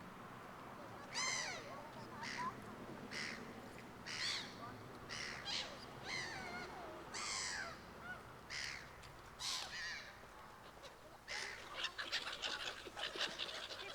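A flock of gulls calling: harsh, separate calls about once a second, becoming denser and overlapping near the end.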